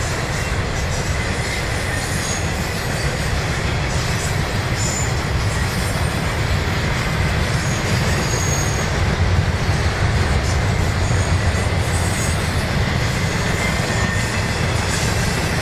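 Freight train cars rolling steadily past on the rails with a continuous heavy rumble, and faint high-pitched wheel squeal coming and going.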